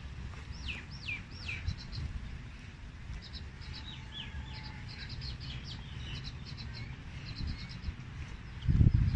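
Several small birds chirping and twittering in quick high trills, with a few hooked whistles about a second in. A low rumble of wind on the microphone runs underneath, with a brief loud buffet near the end.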